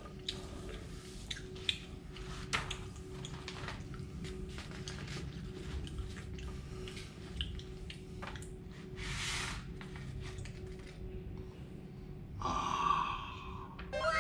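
Mouth chewing crunchy fried mealworms, with small irregular crunches through the first half. A brief rustle comes about nine seconds in, and a short vocal sound comes near the end.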